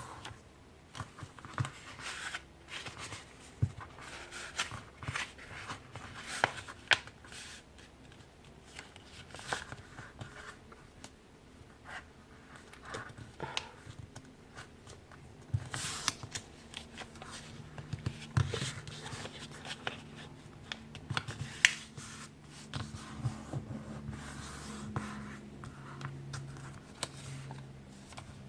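Sheet of letter-size printer paper being folded and creased by hand: irregular crinkling and rustling, with sharp snaps and the scrape of fingers pressing creases flat.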